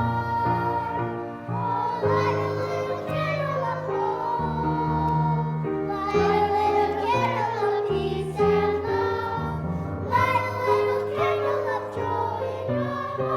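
Voices singing a song with instrumental accompaniment, the sung notes held and wavering over steady lower accompanying notes.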